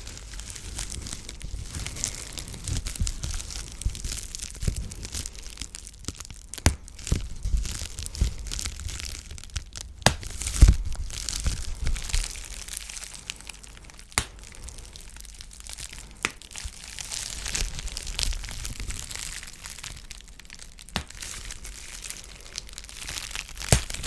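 Close-miked ASMR trigger sounds: crackly rustling with scattered sharp clicks and soft low thumps.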